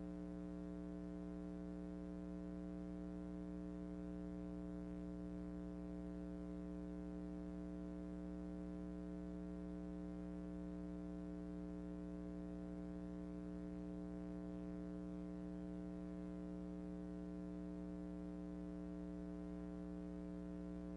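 Steady electrical buzz or hum on the recording, an unchanging set of low tones with no other sound over it.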